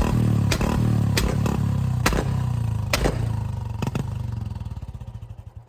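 Motorcycle engine idling, with a sharp pop about every three-quarters of a second; from about four seconds in the note weakens into slow pulses and fades away as the engine winds down.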